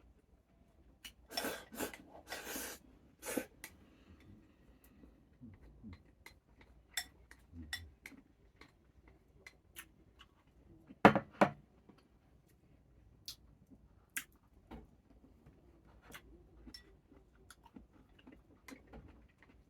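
A person eating: quiet chewing with scattered light clicks of chopsticks or utensils on a bowl, a few short noisy bursts about a second to three seconds in, and one sharp knock about 11 seconds in, the loudest sound.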